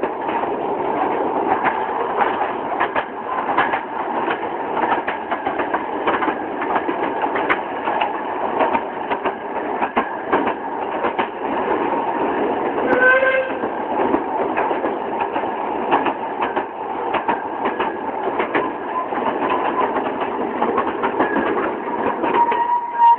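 Train running along the track, a steady rattle with rapid clicks of the wheels over the rails. About halfway through there is one short toot of the train's horn.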